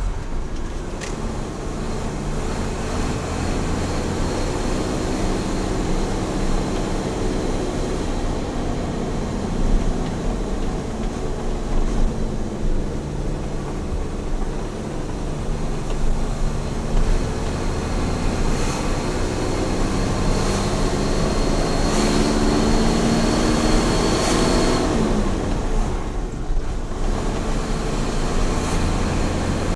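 Small truck's engine running on the highway over a steady rumble of road noise. The engine note rises and falls with speed, climbing through the later part and then dropping away about five seconds before the end.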